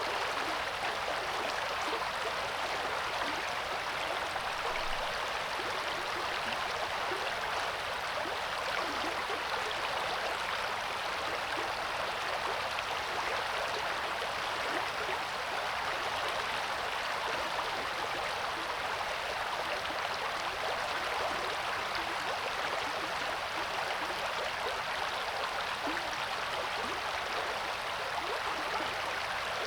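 River water rushing and babbling steadily over rocks: the Coeur d'Alene River flowing, an even wash of water noise without let-up.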